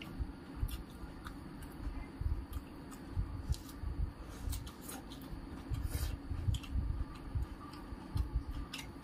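Close-miked chewing and wet mouth clicks of a person eating rice and dal by hand, with soft sounds of fingers mixing food on a metal plate. Irregular short clicks over repeated soft low thumps.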